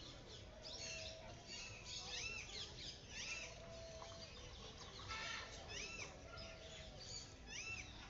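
Small birds chirping: short arched chirps repeated every second or so, with a quick cluster of chirps about five seconds in.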